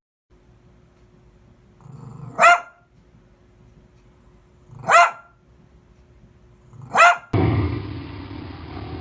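A dog barks three times, single loud barks about two seconds apart, with a low growl leading into the first. Near the end the sound cuts abruptly to a different, steady, muffled noisy recording.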